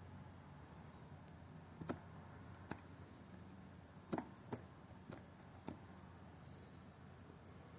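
Ford Focus Mk1 heater blower motor with a faint steady low hum. Six short, irregularly spaced clicks come over it, the loudest about two seconds and four seconds in.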